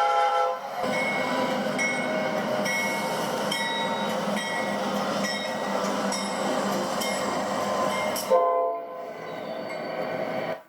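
A train horn chord cutting off just after the start, then a passing train's steady rumble with a short high ding repeating a little more than once a second. About eight seconds in, a sudden loud bang is followed by a brief horn blast.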